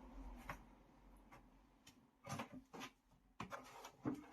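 Faint, scattered rubbing and light knocks from handling the rubber refrigerator door gasket as it is put down into a bucket of hot water to soften.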